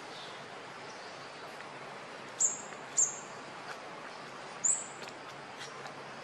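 A bird chirping three times, short, very high-pitched calls that drop slightly in pitch, over a steady outdoor hiss.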